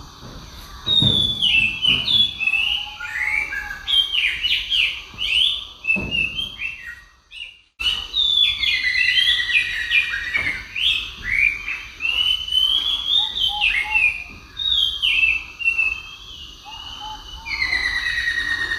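Birds chirping and singing in quick, overlapping whistled phrases, with a sudden brief break about seven and a half seconds in.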